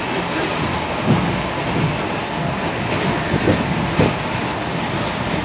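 Moving passenger train heard from inside the carriage: a steady rumble of wheels on rails, with a few low knocks as the wheels pass over rail joints.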